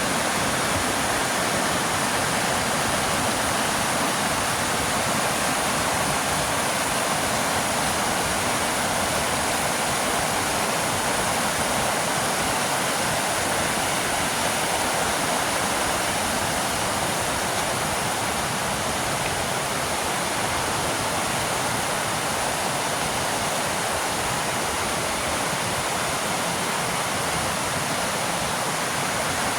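Waterfall water pouring down in a steady, even rush.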